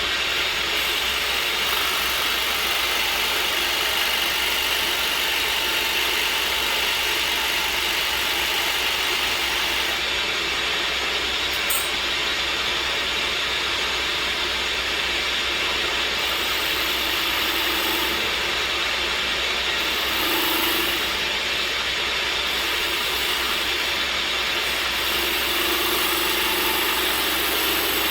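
Woodworking machine in a workshop running steadily with no change in speed, with one brief sharp click near the middle.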